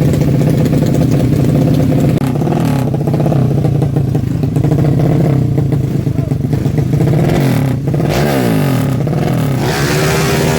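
Honda Karisma's 125 cc single-cylinder four-stroke engine idling while its idle is being set. The engine speed shifts a few times, sliding down about eight seconds in and rising again near the end.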